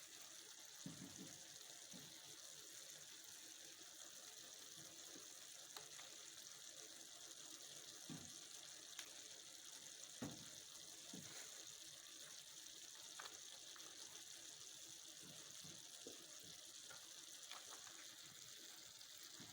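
Faint, steady sizzling from bacon-wrapped chicken simmering in a pan, with a few soft knocks now and then.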